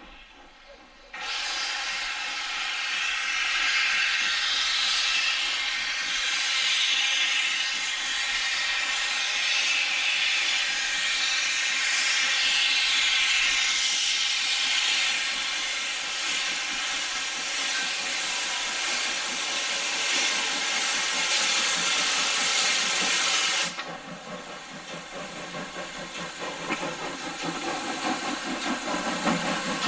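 Steam locomotive venting steam in a loud, steady hiss that starts suddenly about a second in and cuts off sharply near the end, followed by a quieter hiss that grows again.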